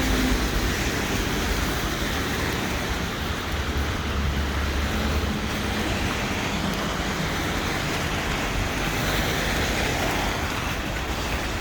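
Steady street traffic noise, with a low engine hum that swells about three to five seconds in as a vehicle goes by.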